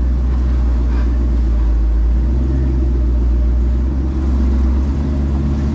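Off-road rock crawler's engine running steadily at low revs, a deep, even drone while crawling on a slick climb.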